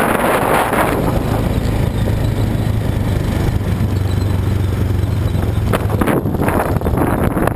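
Quad bike (ATV) engine running with a steady low drone under rough, noisy rumble and wind on the microphone; the drone drops away about six seconds in, leaving knocks and rattles.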